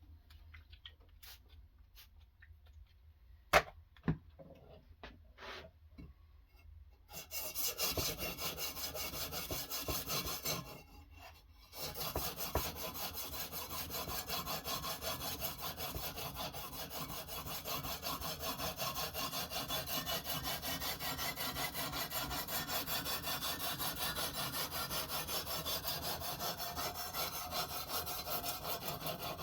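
A few light clicks and two sharp knocks, then from about seven seconds in a sharpening stone on a guided-rod knife sharpener is stroked rapidly back and forth along a knife edge, a steady rhythmic scraping with one short pause near the middle.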